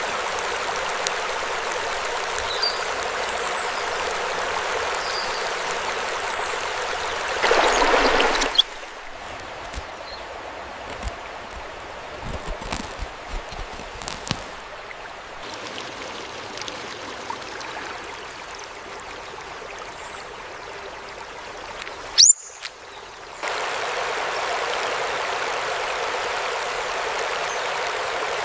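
Steady rush of a flowing stream, briefly louder about a quarter of the way in. It then drops to a quieter stretch of trickling with scattered small clicks and ticks, broken by one short, sharp rising sound. Near the end the steady rush comes back.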